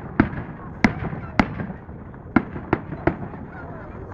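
Fireworks display: aerial shells bursting with sharp bangs, six in quick, uneven succession, over a steady rumble of further bursts.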